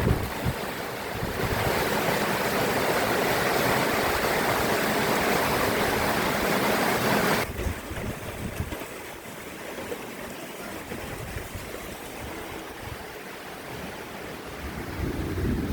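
Heavy rain pouring down in a steady rush; about halfway through it drops suddenly to a softer, steady patter.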